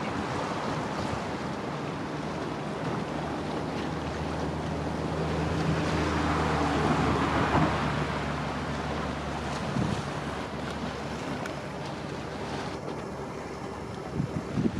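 A river cargo boat's engine droning low and steady as the boat passes, louder around the middle, over the wash of water and wind on the microphone.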